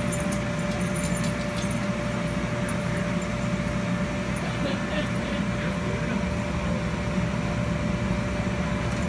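Steady low mechanical hum with a constant thin whine, unchanging throughout.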